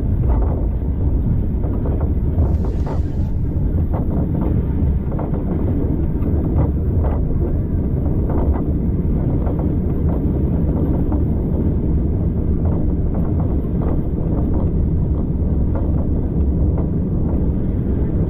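Passenger train carriage running along the track: a steady low rumble of wheels on rail, with many short irregular clicks and rattles, and wind on the microphone. A brief hiss comes about three seconds in.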